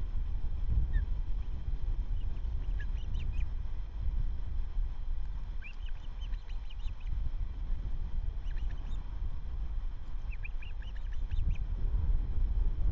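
Osprey calls: four quick series of short, sharp chirps over a steady low rumble of wind on the microphone.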